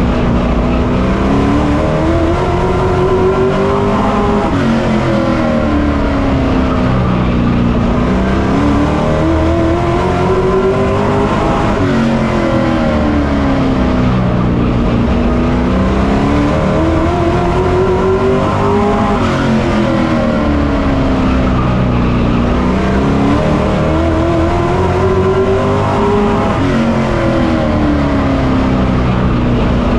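Onboard sound of a Pro Truck race truck's engine running hard, its pitch climbing on each straight and dropping as it lifts into each turn, repeating about every seven to eight seconds.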